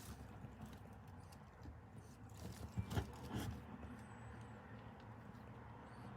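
Sulcata tortoise at a pile of dandelions: faint scraping and rustling, with a short cluster of soft knocks and crackles about three seconds in.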